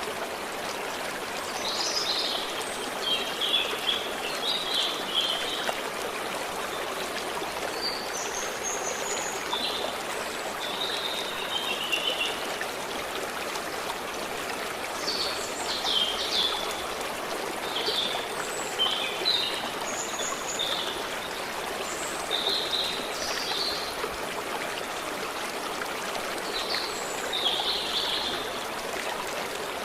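A stream runs steadily, with small birds giving short chirps and calls at intervals throughout.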